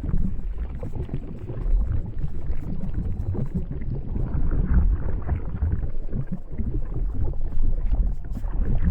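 Lava flow rumbling unevenly and low, with faint scattered crackles.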